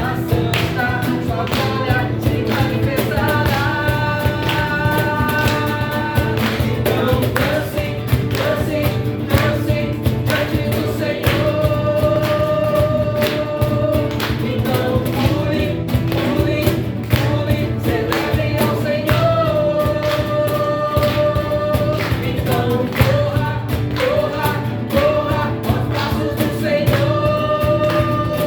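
Gospel-style worship song: a choir of voices singing held notes over a band with a steady beat.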